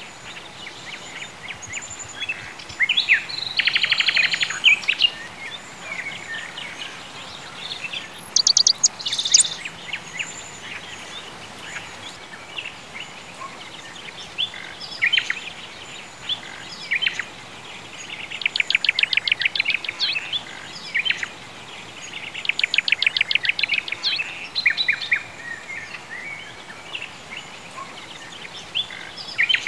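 Birds singing: scattered short chirps and calls, with a rapid trill of quickly repeated notes about three seconds in, about eighteen seconds in and about twenty-two seconds in, over a faint steady hiss.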